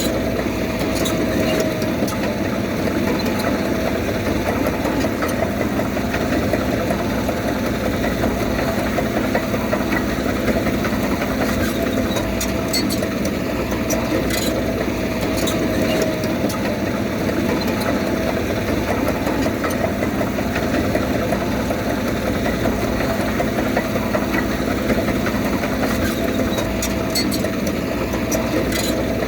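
Diesel engine of heavy earthmoving machinery running steadily, with a steady mid-pitched tone over the engine rumble.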